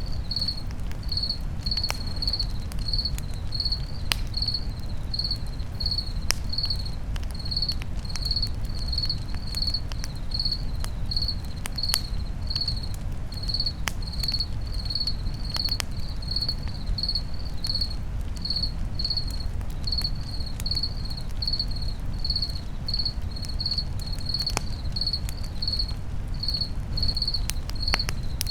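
Crickets chirping steadily, about two pulses a second, over a campfire with scattered sharp crackles and a low steady rumble.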